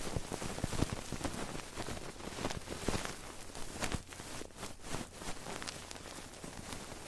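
ASMR trigger sounds close to a microphone: dense, irregular clicking and scratching over a steady hiss, a few stronger clicks standing out.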